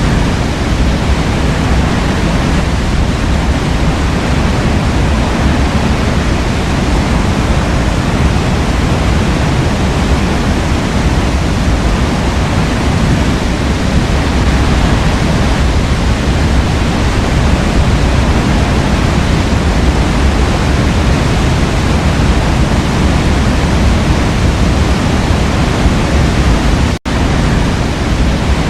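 Waterfall: a steady, loud rush of falling water, heaviest in the deep low end, that cuts out for an instant near the end.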